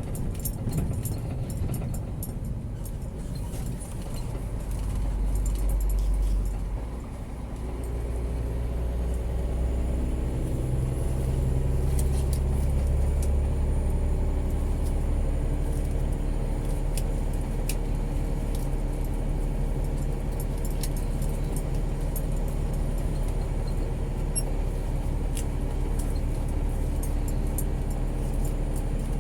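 Scania G410 truck's diesel engine running, a steady low rumble whose pitched engine note comes up about eight seconds in and then holds steady, with scattered light clicks and rattles.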